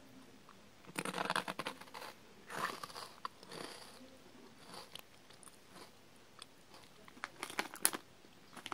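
A person biting into and chewing a crunchy, coated, black-pepper-flavoured savoury snack: two bouts of crunching in the first four seconds, then a few sharper crunches near the end.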